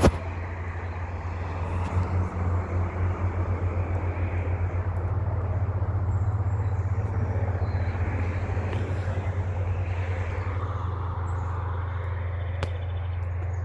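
Outdoor ambience while walking: a steady low rumble under an even outdoor hiss, with no speech.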